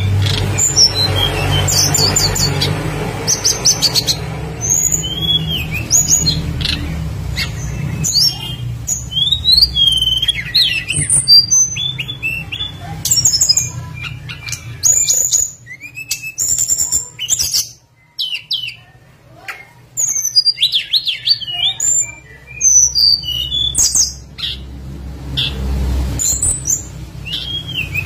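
Tledekan gunung flycatcher singing a rapid, varied run of high chirps and whistled notes, many sliding up or down in pitch, with a brief pause partway through, over a low steady hum.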